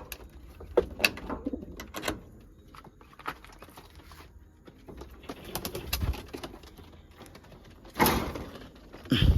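Domestic pigeons cooing in a coop, with scattered sharp clicks and knocks and a short, loud burst of noise about eight seconds in.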